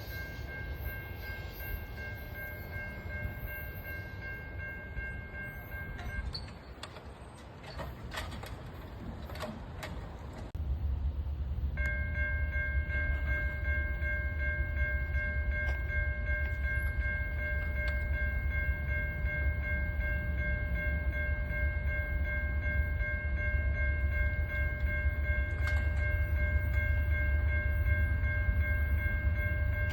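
A steady high ringing, like a grade crossing warning bell, breaks off about a fifth of the way in and starts again before the halfway mark. From about a third of the way in, a heavy low rumble of an approaching train comes up under it.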